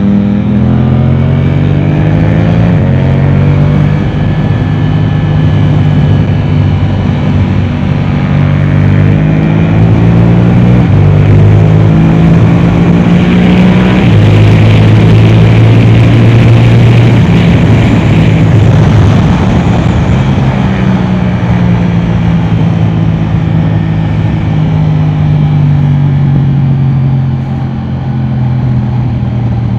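Yamaha R7's 689 cc parallel-twin engine through an Akrapovic exhaust, ridden hard on track, its pitch stepping up and down every few seconds with gear changes. The loudest stretch comes at sustained high revs about halfway through, with wind hiss, before the rider eases off near the end.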